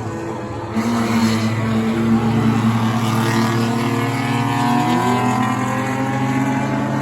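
Engines of several enduro race cars running at speed together around a short oval track. The sound gets louder about a second in, and one engine's pitch climbs about five seconds in.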